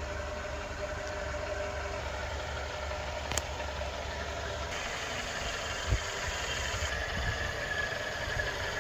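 A car engine idling steadily with a low rumble. There is a sharp click about three and a half seconds in and a dull thump about six seconds in.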